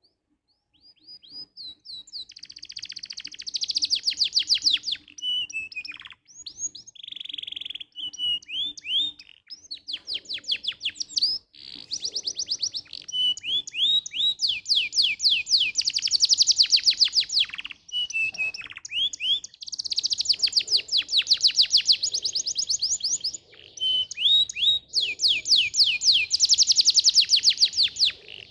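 Canary singing a long song of fast rolling trills and chirps. The phrases last a few seconds each, with short pauses between them, and the song begins about a second in.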